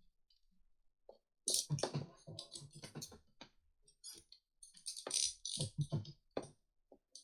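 Plastic segments of a 144-piece Rubik's Snake clicking and clattering as they are twisted, in two loud bursts of quick irregular clicks with fainter single clicks between them.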